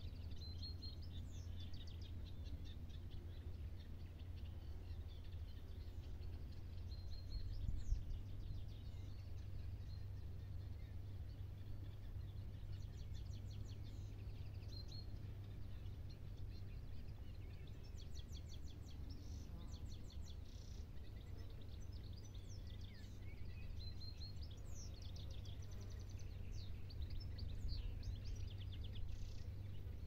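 Several small birds singing and calling, a scatter of high chirps and rapid trills, over a steady low rumble.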